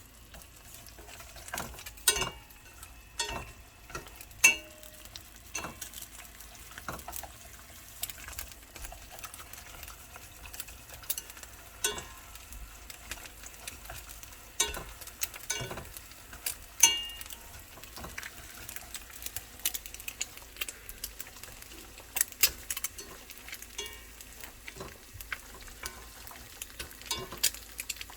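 A utensil stirring instant black-bean noodles in a pot or pan, knocking and clinking against the metal at irregular intervals over a faint sizzle.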